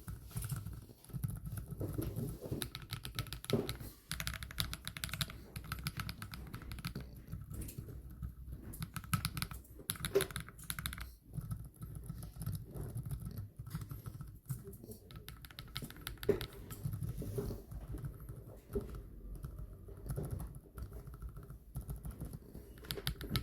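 Mechanical keyboard with linear switches being typed on, a dense, continuous stream of keystroke clicks.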